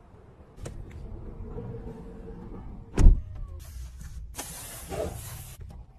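An Avatr 11 body mechanism's electric motor hums steadily. About three seconds in there is a single solid thump, followed by two bursts of hiss.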